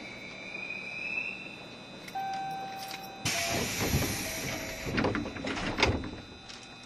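Air-operated sliding doors of a JR Shikoku 7200 series electric train working at a station stop: a short steady beep, then a sudden burst of air hiss, followed by several thuds from the doors.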